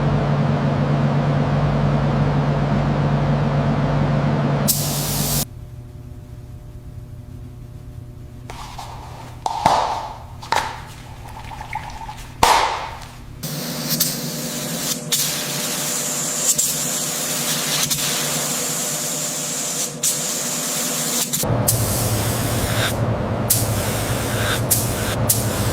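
Hissing spray over a steady motor hum, in several short cut-together segments broken by a few knocks and clicks.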